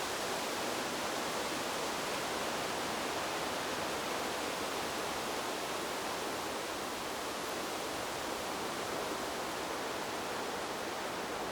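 Wind blowing through a bamboo grove, a steady even hiss without gusts or breaks.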